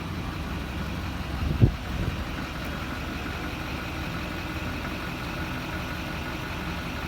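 Duramax 6.6L LBZ V8 turbodiesel idling steadily, with a single sharp thump about a second and a half in.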